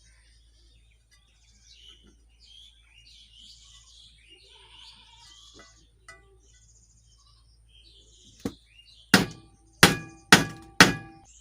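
Hammer blows on a metal shaft driven into candle wax packed in a ceiling fan's bearing housing, used to push the stuck bearing out. Near the end one lighter tap is followed by four loud strikes about half a second apart, each with a short metallic ring.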